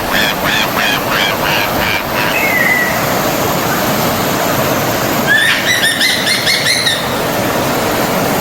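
A stream of running water flowing steadily, with birds singing over it: a string of about half a dozen repeated chirps in the first two seconds, then a faster run of chirping notes about five seconds in.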